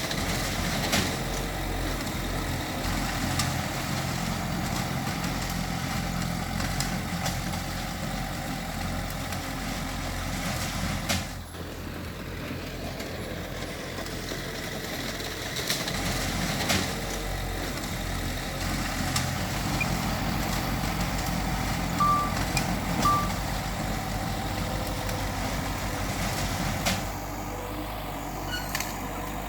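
Heavy diesel earthmoving machinery, a bulldozer working alongside dump trucks, running steadily under load with scattered metallic clanks and knocks. Two short high beeps come about three-quarters of the way through.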